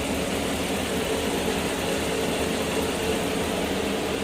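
Steady mechanical drone, even in level, with a few held low hums like an idling engine or shop machine.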